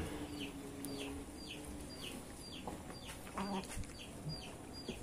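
A bird's short high calls, each falling in pitch, repeating steadily about twice a second, with a few faint knocks a little past halfway.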